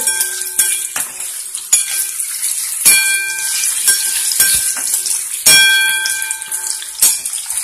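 Paneer cubes sizzling in hot oil in a metal wok while a spoon stirs them, scraping and knocking against the pan. A few of the knocks, at the start, about three seconds in and about five and a half seconds in, leave the wok ringing briefly.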